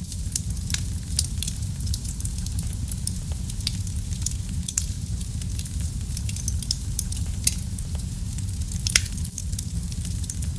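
Wood fire burning in a fireplace: a steady low rumble of flames with frequent irregular sharp crackles and pops, a few louder pops about a second in, past seven seconds and near nine seconds.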